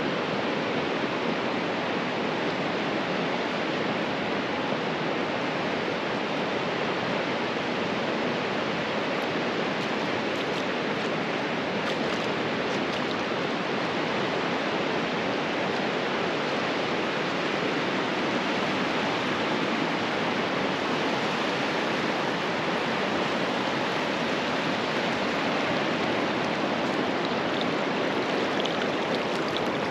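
Steady rushing of water, an even wash with no distinct surges or breaks.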